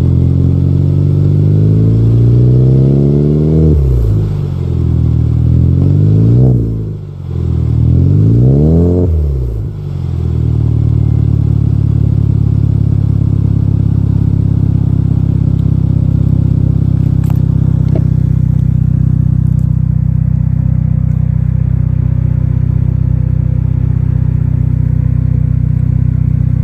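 Hyundai Sonata 2.0T's turbocharged four-cylinder running through an aftermarket turbo-back exhaust (downpipe, high-flow cat midpipe, Injen catback) after a cold start. It is revved three times, a slow climb and drop first, then two quicker blips, and settles to a steady idle about ten seconds in.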